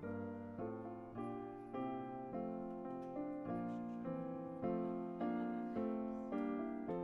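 Piano playing a slow, even sequence of chords, a new chord struck a little under twice a second, each one ringing and fading before the next.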